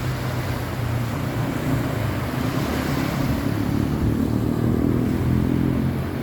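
A motor hums steadily over the rush of the sea, growing a little louder for a couple of seconds in the middle.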